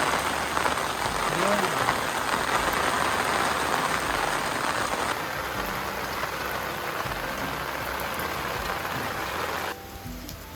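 Heavy rain falling, a dense steady hiss that cuts off suddenly near the end, giving way to soft background music.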